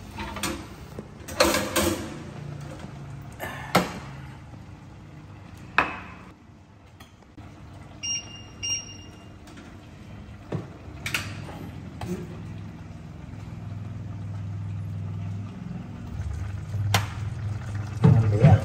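Kitchen handling sounds: scattered knocks and clicks of dishes and utensils set down on a stone counter. A little after 8 s come two short electronic appliance beeps, and from about 10 s a low steady hum.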